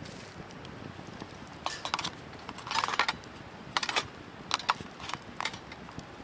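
A few irregular short crunching and clattering sounds of something being handled, about six in all, the longest about three seconds in.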